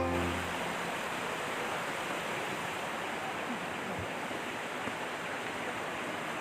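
Water from a small waterfall falling and running, a steady even rush.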